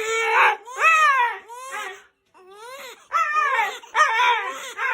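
A dog whining and yowling in a string of short, high, rising-and-falling cries, fading briefly about two seconds in before starting again.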